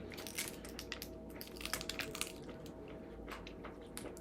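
Crab shells being cracked and picked apart by hand, a scatter of short crunching, squishing clicks.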